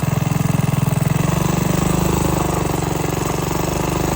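Minibike's small single-cylinder engine running steadily at light, roughly quarter throttle under way.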